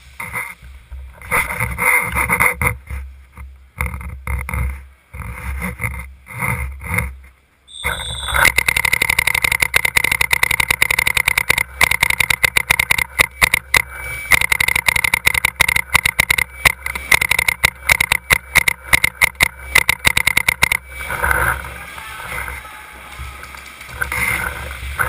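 Paintball markers firing in rapid, sustained volleys for about twelve seconds, many shots a second. Just before the volleys a short high beep sounds.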